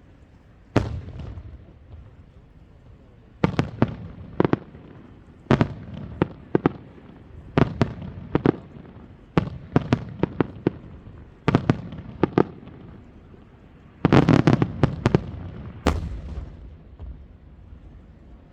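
Aerial fireworks shells bursting overhead: a long run of sharp bangs, single and in quick clusters, each followed by a low rumbling echo. Near the end comes a dense rapid volley.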